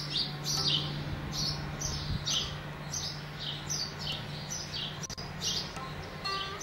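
A bird calling over and over: short high chirps, each falling in pitch, two or three a second, over a low steady hum.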